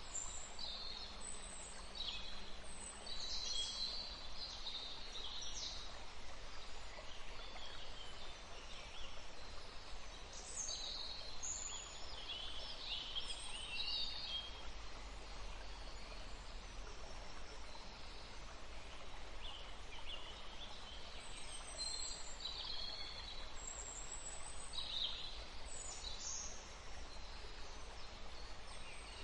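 Forest stream flowing steadily under several birds singing, in short high chirps and trills that come in bursts with a quieter spell about halfway through.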